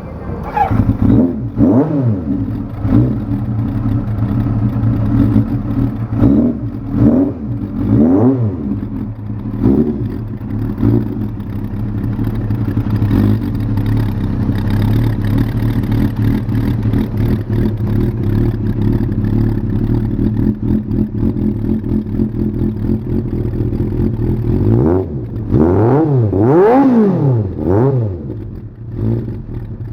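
1985 Kawasaki GPZ900R's inline-four engine running through its exhaust: a string of quick throttle blips over the first ten seconds or so, a steady idle, then several higher revs near the end.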